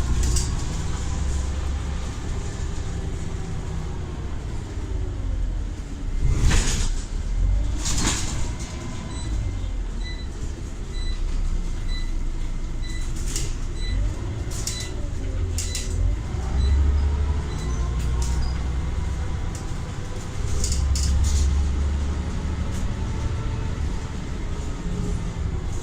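Scania Omnicity bus's ZF automatic gearbox whining in tones that rise and fall through the gears as the bus speeds up and slows, over the steady rumble of the diesel engine. A few sharp knocks and rattles come through, and from about nine seconds in, a short beep repeats for several seconds.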